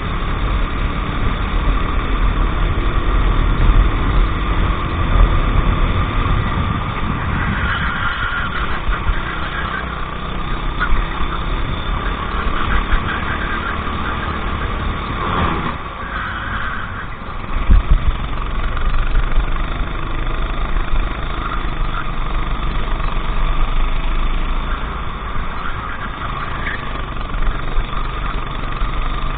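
Go-kart engine running continuously on the track, its loudness and note varying as it is driven, with a brief dip a little past the middle.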